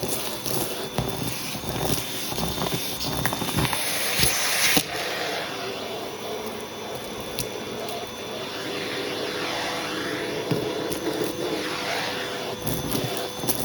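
Hoover vacuum cleaner running with a hose tool on a shag rug, a steady motor hum with a thin whine and grainy crackle as it sucks up a carpet mix. There is a brief loud change in the airflow about five seconds in.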